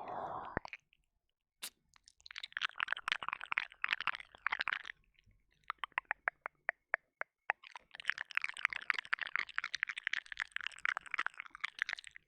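Close, wet mouth sounds of ear licking and ear eating on a binaural microphone's ear: dense runs of quick wet clicks and smacks. Between the two dense runs comes a sparser run of single clicks, and there is a short pause near the start.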